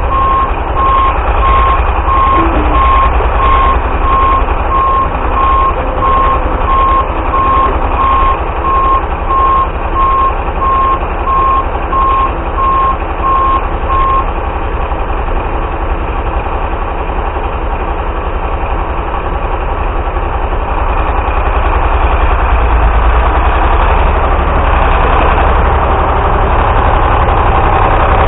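Galion 503 grader's UD-236 diesel engine running after a cold start, with a rapid, regular beeping alarm over it that stops about halfway through; the engine gets a little louder near the end.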